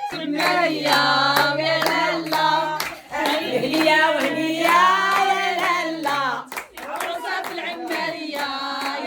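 A group of voices singing a traditional Berber wedding song over steady rhythmic hand clapping. The singing drops out briefly about two-thirds of the way through, then picks up again.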